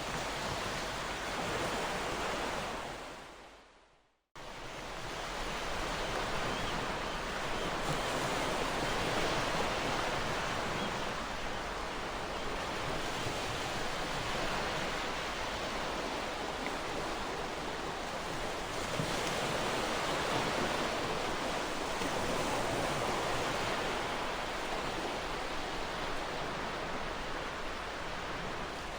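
Ocean surf: a continuous rushing wash of waves, swelling and easing every few seconds. About three seconds in, the sound fades out to silence and then cuts straight back in, an edit join in the looped recording.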